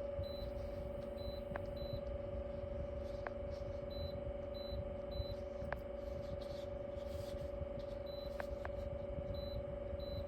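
Small USB-powered evaporative air cooler fan running: a steady hum with one constant whine, and a few faint clicks now and then.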